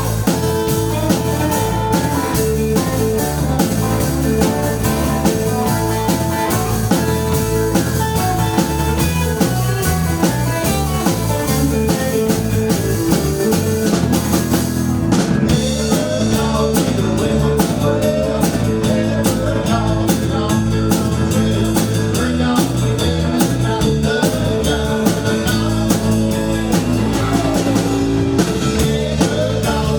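A band playing blues-rock on electric guitar and drum kit, with a steady beat; the cymbal strokes grow busier about halfway through.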